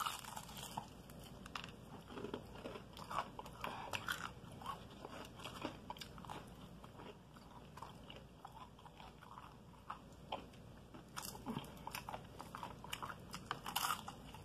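A person biting and chewing crispy fried chicken: irregular short crunches and wet chewing sounds close to the mouth, with busier clusters of crunches now and then.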